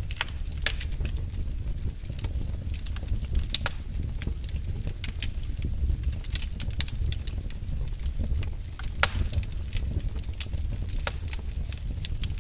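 Fire burning in a fireplace: a steady low rumble with frequent sharp crackles and pops at irregular intervals, one especially loud pop about nine seconds in.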